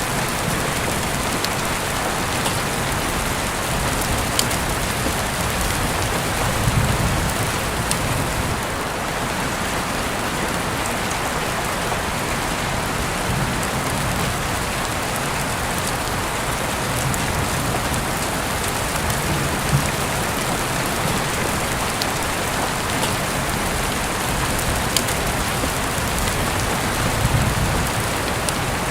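Steady rain falling on surfaces, an even hiss with scattered sharp clicks of drops now and then.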